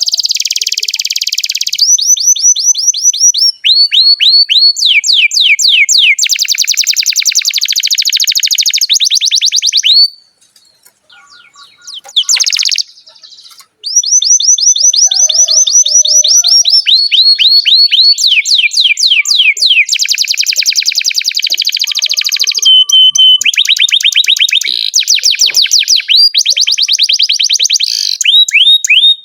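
Domestic canary singing long, rapid trills of repeated downward-sweeping high notes, many per second, with the phrases changing speed and pitch. The song breaks off for a few seconds near the middle and then resumes.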